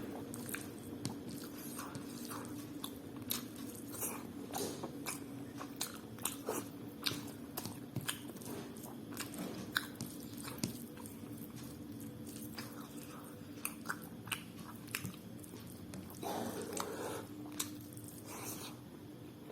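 Close-miked chewing and mouth sounds of a person eating rice pulao with curry: a run of small wet clicks and smacks, with a denser stretch of chewing about three-quarters of the way through, over a steady low hum.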